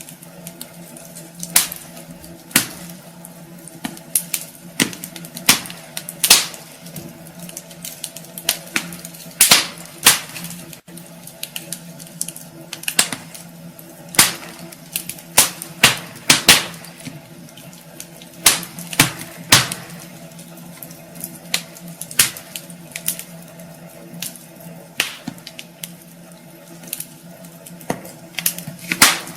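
Wood fire crackling in a fireplace: irregular sharp pops and snaps, some loud, every second or so over a faint steady hum.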